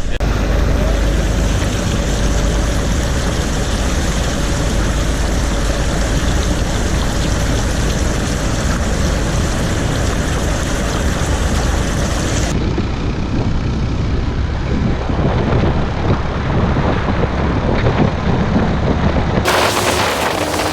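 Engine and road noise of a motorbike on the move, a steady loud rumble. The sound changes abruptly twice, about 12 and 19 seconds in.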